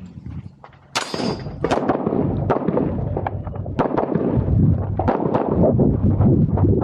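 A string of handgun shots fired in quick succession, about two or three a second, beginning about a second in, with metallic clanging of steel targets being hit.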